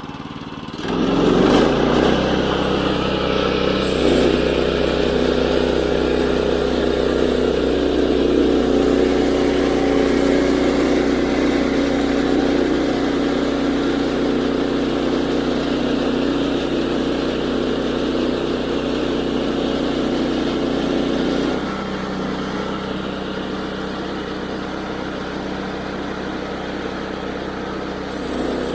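Woodland Mills HM122 bandsaw mill's 9.5 hp gas engine throttling up about a second in and then running steadily as the band blade cuts a slab from a walnut log. The sound drops somewhat and runs a little lighter about 21 seconds in.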